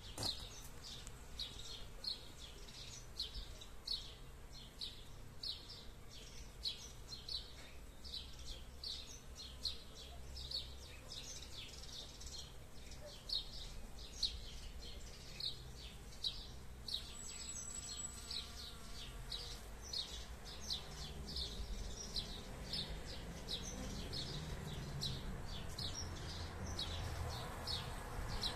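A small bird repeats a short high chirp about twice a second throughout. In the last several seconds a honeybee buzzes close by with a low hum.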